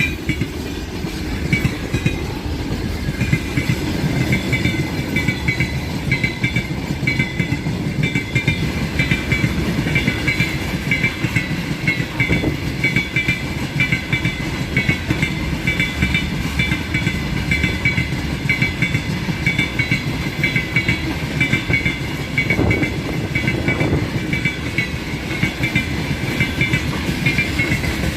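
Freight train wagons rolling past with a steady rumble and a continuous, evenly repeating run of wheel clicks over the rails.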